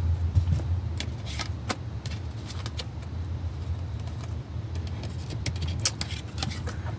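Tarot cards being handled and pulled from the deck: a few short sharp flicks about a second in and a quick cluster near the end, over a steady low hum.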